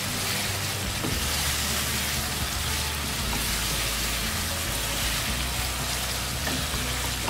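Chicken pieces sizzling in oil in a nonstick wok as they are stirred and turned with a wooden spatula, a steady frying hiss. This is the bhuna stage of dahi chicken: the yogurt has cooked down and the meat is being dry-fried in its oil.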